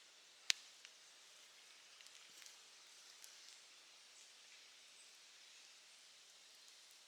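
Campfire crackling: one sharp pop about half a second in, then a few smaller, scattered crackles over a faint steady hiss.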